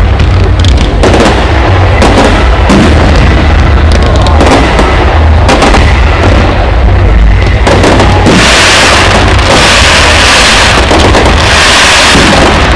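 Public fireworks display: shells bursting in repeated sharp bangs over a constant low rumble, very loud throughout. A loud hissing sound joins in from about eight seconds in.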